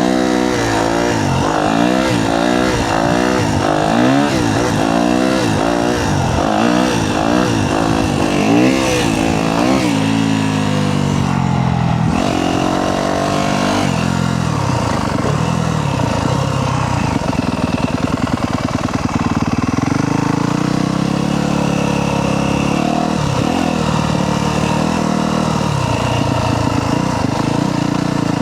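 Yamaha YZ250F dirt bike's four-stroke single-cylinder engine being ridden hard, revving up and down in quick repeated sweeps for about the first ten seconds, then running at steadier revs with slower rises and falls.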